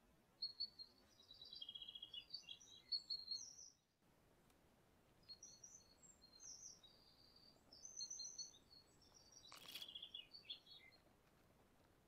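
Faint songbird song: quick, high twittering phrases in two bouts, the second starting about five seconds in. A single sharp click falls near the end.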